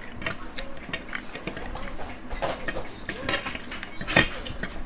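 Eating utensils clicking and scraping against plates in quick, irregular strokes, with one louder clink about four seconds in.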